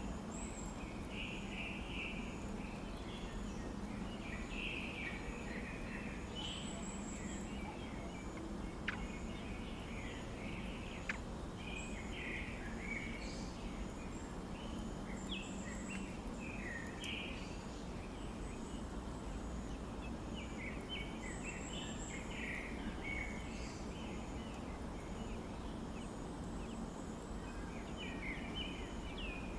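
Birds chirping in short scattered clusters over a steady background hiss, with faint high notes repeating throughout. Two brief sharp ticks come in the first half.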